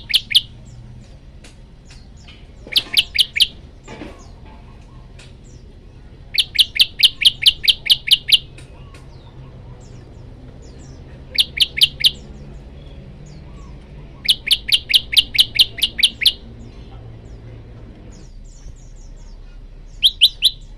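A male olive-backed tailorbird singing to call a female. It gives six bursts of loud, rapidly repeated high notes at about five a second; the two longest bursts last about two seconds each.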